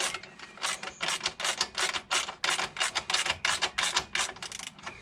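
Hand tool ratcheting in quick repeated strokes, about three to four a second, stopping near the end, while an aftermarket exhaust's fixings are done up.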